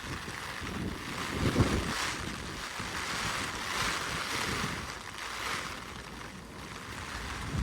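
Gusty typhoon wind, a rushing noise that swells and eases over the microphone.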